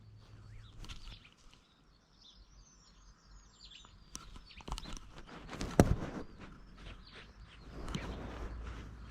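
Small birds chirping faintly for a second or two, among close rustling and scratching noises. A single sharp knock near the middle is the loudest sound.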